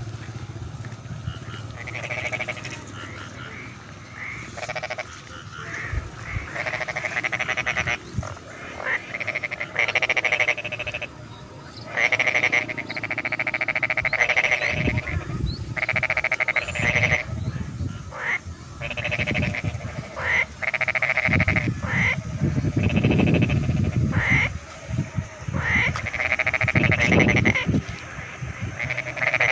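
Chorus of rice-paddy frogs calling in overlapping bouts of rapid pulsed croaks, each bout a second or two long with short gaps between. A low rumble comes and goes underneath in the second half.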